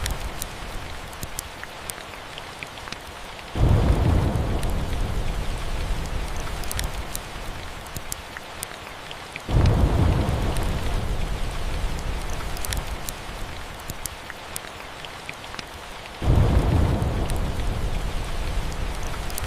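Steady rain with three rolls of thunder, each breaking in suddenly, about six seconds apart, and dying away slowly.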